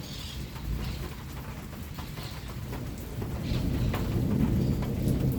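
Steady rain falling, with a low rumble of thunder that swells from about three seconds in.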